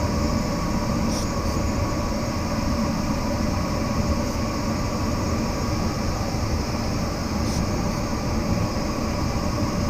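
Steady rush of airflow inside a glider cockpit in flight, with a faint steady hum under it.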